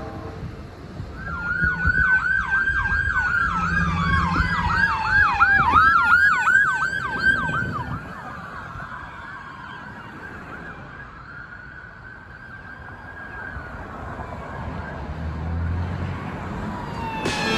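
Emergency vehicle sirens going by: a fast yelp siren sweeping up and down, overlapped by a slower falling wail, over a low engine rumble. After about eight seconds the sirens drop to a fainter, near-steady tone.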